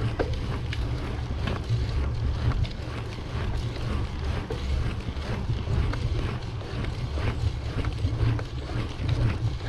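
Wind buffeting the microphone of a camera riding along on a moving bicycle: a steady low rumble, with faint light ticks and rattles from the bike rolling over the road.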